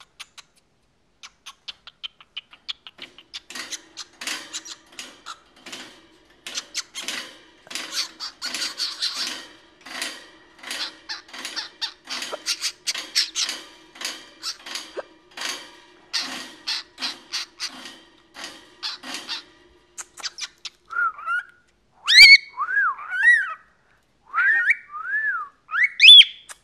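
Pet cockatiel vocalising: a long run of fast, clicky chatter, then, about 21 seconds in, loud whistled notes that swoop up and down.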